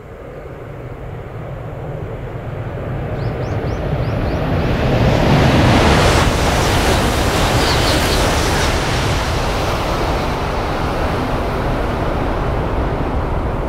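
Shinkansen high-speed train passing at over 300 km/h: a rush of air and rail noise that swells over the first few seconds, peaks about six seconds in and stays loud as the long train goes by.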